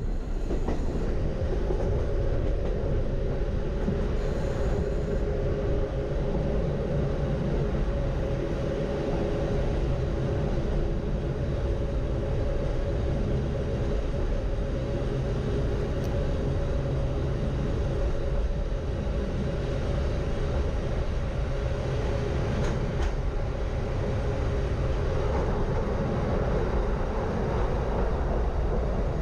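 Norokko sightseeing train running along the line, heard from aboard a passenger car: a steady low rumble of wheels on rails with an even hum.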